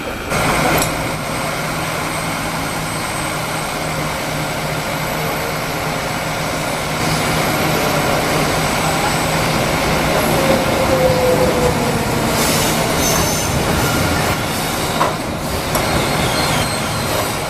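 A train passing on the railway line: a steady, loud rumble of rolling wagons, with a brief falling squeal about ten seconds in.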